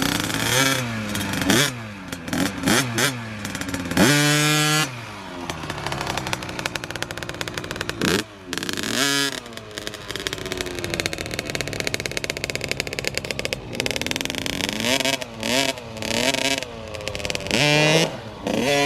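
Small dirt bike engine revving up and down over and over, with a loud held high rev about four seconds in and a steadier run in the middle.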